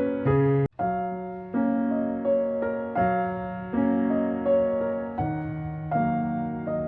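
Background piano music: a slow, gentle sequence of struck notes and chords, each ringing and fading. It cuts out very briefly a little under a second in.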